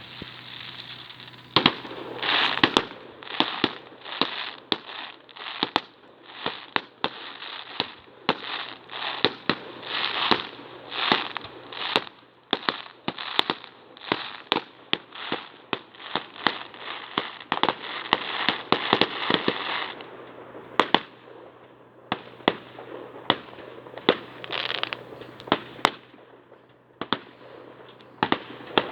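Fireworks display: a rapid barrage of bangs, one about every half second, over continuous crackling from the bursting shells. It is densest and loudest in the first two-thirds, then thins to scattered bangs.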